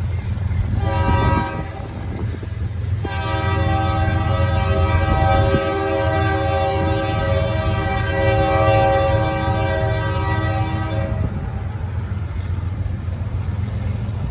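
Union Pacific diesel locomotive's air horn sounding: a short blast about a second in, then one long blast of about eight seconds, over the steady low rumble of the passing train.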